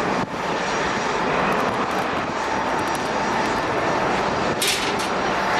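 Airliner jet engines running, a steady loud wash of noise, with a short high hiss about four and a half seconds in.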